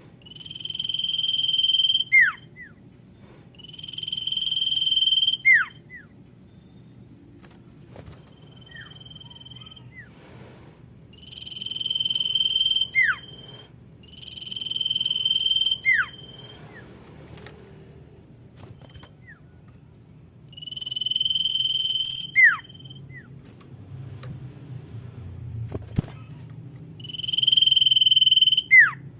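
Common iora (sirtu) calling: about six long, steady high whistles a few seconds apart, each swelling in loudness and ending in a quick falling note, with a few shorter, fainter whistles between. It is a lure call, the female calling the male, used to draw other ioras in.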